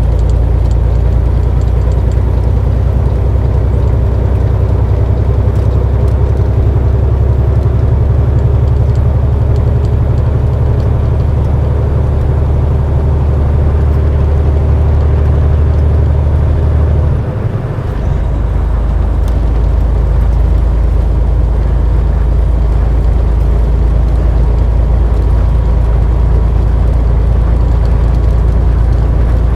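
Semi truck's diesel engine and road noise droning steadily inside the cab while driving. About halfway through the low engine note dips and changes pitch for a moment, then runs on steadily.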